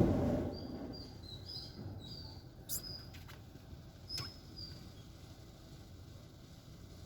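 A lull in the automatic car wash's machinery: a faint low hum with several short, high chirps and two sharp clicks, a second and a half apart.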